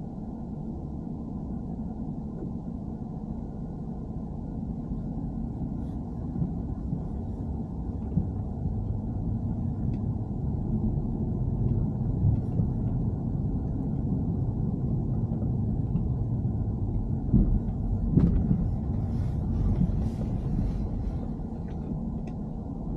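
BMW E90 3 Series car running, a steady low rumble that grows slightly louder over the stretch, with a few short sharp knocks between about 17 and 20 seconds in.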